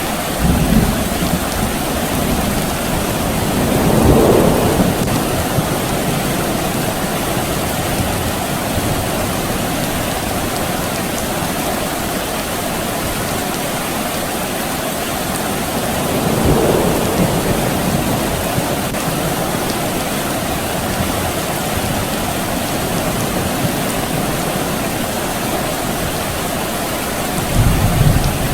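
Steady soft rain falling, with distant thunder rumbling low a few times: about four seconds in, again around sixteen seconds, and near the end.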